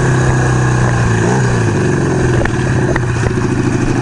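1975 Kawasaki KZ400 cafe racer's parallel-twin engine running at low revs, with a brief rise and fall in revs about a second in, then settling into uneven, lumpy pulsing with a few light clicks.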